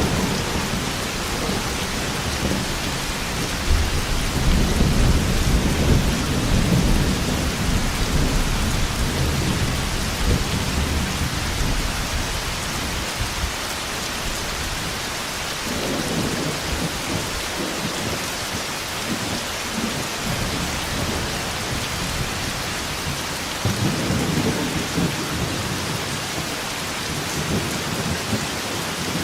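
Thunderstorm: steady heavy rain with rolling thunder, a long deep rumble from about four to eleven seconds in and shorter rumbles near sixteen and twenty-four seconds.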